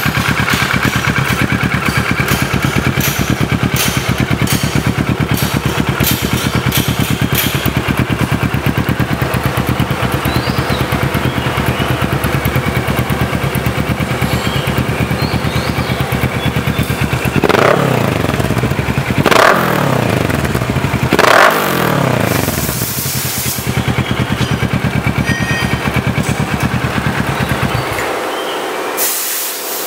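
Kawasaki ER-6n's 649 cc parallel-twin engine idling through an AHM aftermarket exhaust, blipped three times in quick succession about two-thirds of the way in, each rev rising and falling back to idle. The engine note stops near the end.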